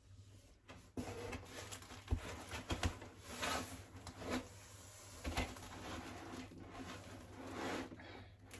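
Packaging being handled and unpacked from a box: irregular rustling with a few sharp knocks.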